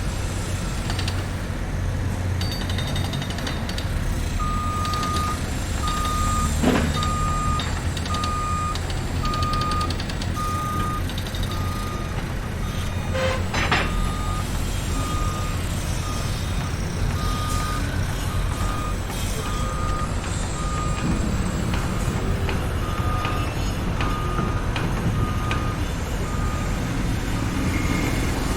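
Construction vehicle's reversing alarm, a single-pitched beep repeating at an even pace that starts about four seconds in, over the low steady rumble of heavy machinery engines. Two sharp metallic knocks stand out, one near the start of the beeping and another about halfway through.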